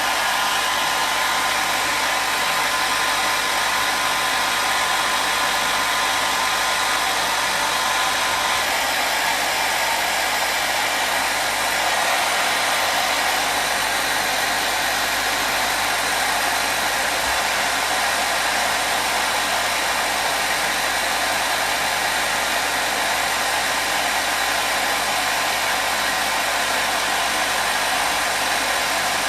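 Hair dryer running steadily: an even rushing blow with a faint whine, the whine thinning out about eight seconds in.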